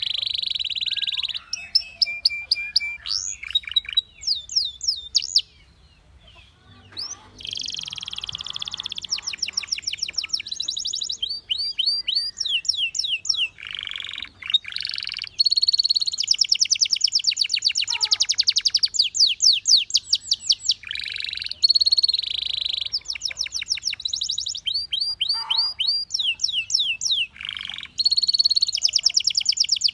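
Male domestic canary singing: fast trills of rapidly repeated sweeping notes, with rolling, buzzy phrases between them and a brief pause about six seconds in.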